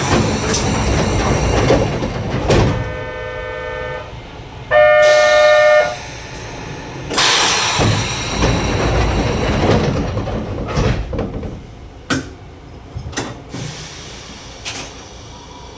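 Sangi Railway Hokusei Line narrow-gauge train, with loud running noise. Two held horn-like tones sound about three and five seconds in, the second louder. The sound then quietens, with a few sharp knocks near the end.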